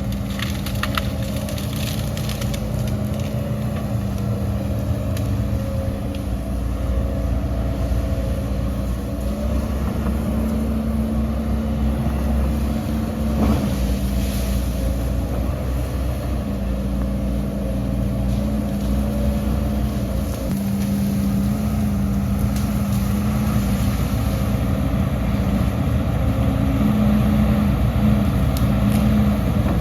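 Heavy diesel engine of earthmoving machinery running steadily under load, its pitch stepping up and down slightly with the throttle.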